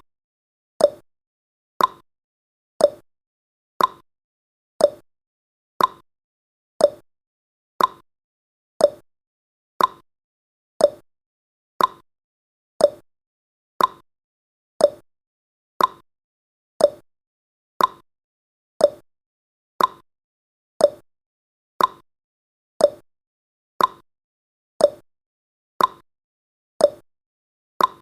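Clock-like tick-tock sound effect of a countdown timer: one short, sharp tick each second, alternating slightly higher and lower in pitch.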